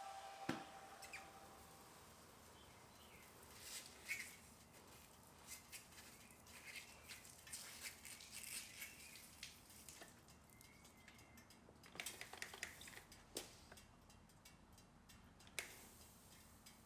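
Near silence, with faint scattered clicks and ticks and a few faint short chirps.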